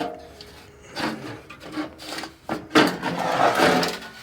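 Scraping and rubbing of the furnace blower's metal parts being handled and worked loose, in several short bursts and then a longer, louder stretch near the end.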